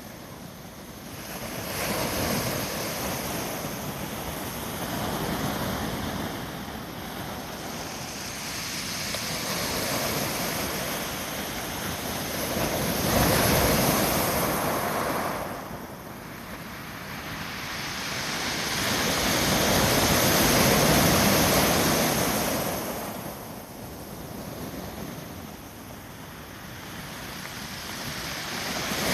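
Heavy ocean surf, raised by an approaching typhoon: waves breaking and rushing up the beach, the noise swelling and falling away every several seconds with four big surges.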